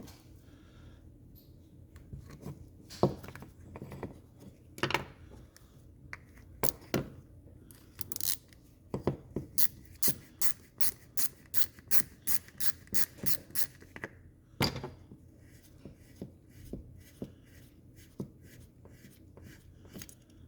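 Hand tool scraping and picking at a Ski-Doo E-RAVE power valve as the old factory-glued diaphragm is worked off. Scattered clicks and scrapes, then a run of about a dozen quick, regular scraping strokes midway through.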